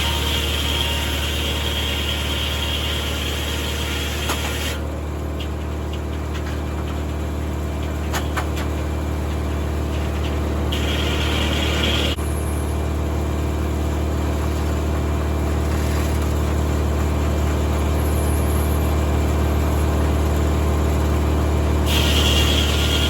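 Tractor engine running at a steady speed, powering a 1950 Corley circular sawmill, with a high whine that drops out about five seconds in, returns briefly around eleven seconds and again near the end.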